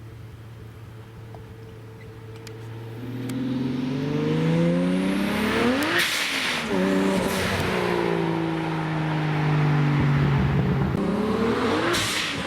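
Turbocharged Barra inline-six in a 1000 rwhp Ford Tornado ute revving up hard. The engine pitch climbs to a peak about six seconds in, dips and rises once, then falls away slowly before climbing again near the end.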